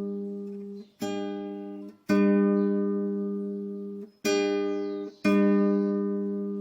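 Acoustic guitar playing slow strummed chords, four in turn, each left ringing and fading before the next is struck.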